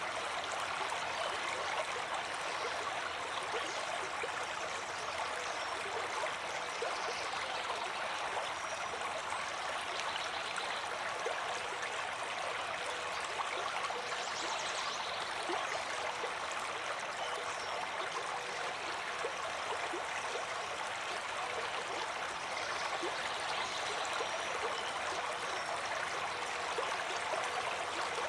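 Water flowing steadily in a stream, an even, continuous rush with no pauses.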